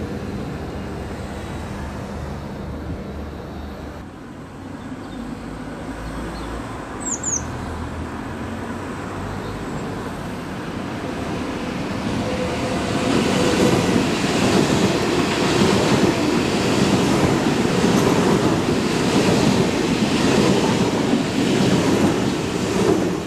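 Electric trains on the line below: a just-passed ICE's running noise fades away. About halfway through, a double-deck regional express push-pull train approaches and rolls past, growing loud, with a rhythmic clatter of wheels over the track.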